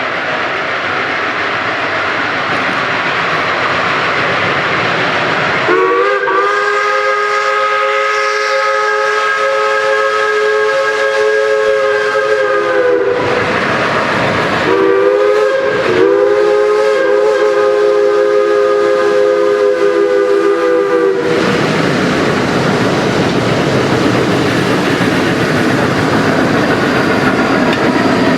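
Chime steam whistle of a geared steam logging locomotive sounding two long blasts, several notes together, with a short break between them and a brief dip early in the second. Before and after the whistle, a steady rushing noise of the working train.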